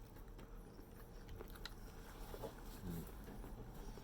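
Faint chewing and eating sounds from a person at the table, with soft scattered mouth clicks.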